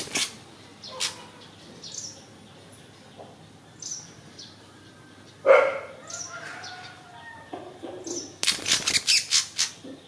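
An oriental magpie-robin trapped among louvre slats gives short, high chirps now and then. There is a single louder, sharp sound about halfway through. A quick run of wing flutters against the slats comes near the end.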